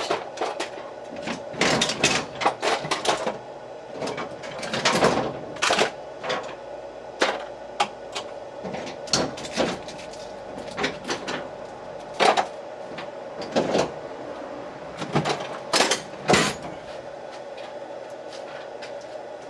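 Irregular clicks, knocks and clatter of hard parts or tools being handled during a repair, over a faint steady hum.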